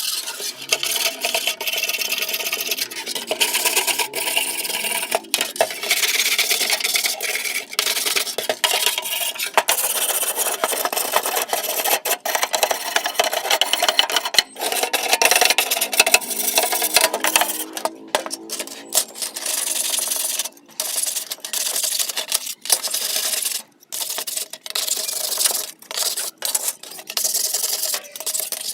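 Rasping scrape of an abrasive being worked over metal, as in filing or sanding rust off a fan part. It is nearly continuous at first and breaks into separate strokes with short pauses in the second half.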